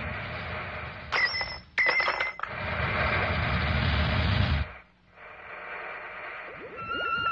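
Cartoon soundtrack effects: a loud rumbling noise broken by two short, shrill squeals about a second and two seconds in. The rumble cuts out just before five seconds, and near the end quick falling chirps and steady electronic musical tones begin.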